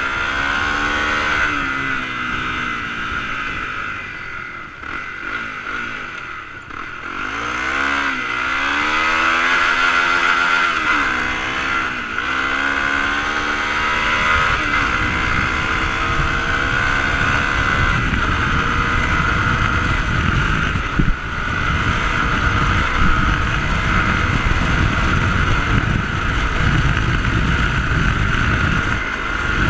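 Dirt bike engine running as it is ridden, the engine note easing off a few seconds in and then rising and falling with the throttle, with wind rumbling on the microphone through the second half.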